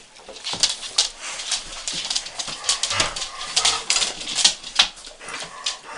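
A group of dogs being fed chunks of beef, making many quick, irregular clicks and scuffles.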